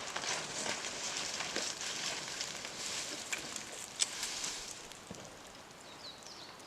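Footsteps crunching and rustling through dry, stony scrub, with a sharper crack about four seconds in. The steps fade after about five seconds, and a small bird chirps a few times near the end.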